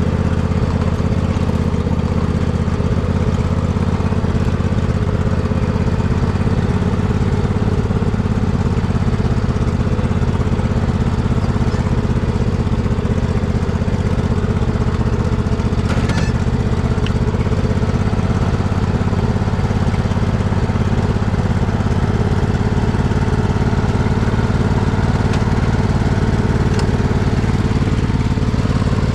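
Poulan riding mud mower's engine running steadily at an even speed, freshly tuned to cure a bad misfire.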